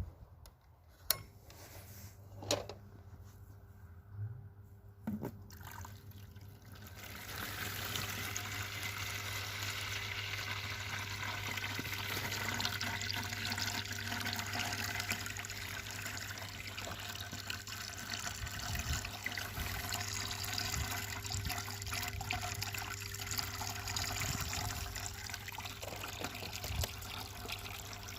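Malysh submersible vibration pump running with a steady low hum and a few knocks in the first seconds; about seven seconds in, water starts gushing out and a steady rush of water continues over the hum, the pump now delivering water.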